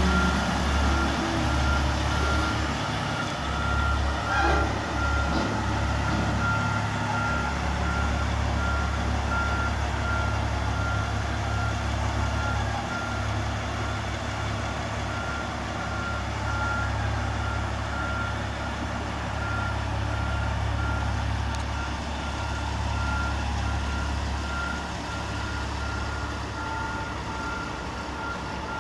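Caterpillar 777 haul truck's reversing alarm beeping steadily at an even pace over the low, steady running of its diesel engine.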